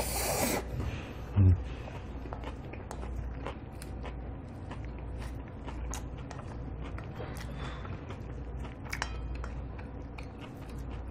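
Close-up eating sounds of a man taking a spoonful of yukhoe bibimbap: a loud slurp as the food goes in, a short hummed "mm" about one and a half seconds in, then chewing with many small wet clicks and crunches of raw beef and crisp vegetables.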